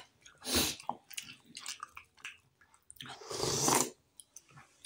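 Close-up eating sounds of steamed momo dumplings: soft, wet chewing clicks, with a louder bite about three seconds in.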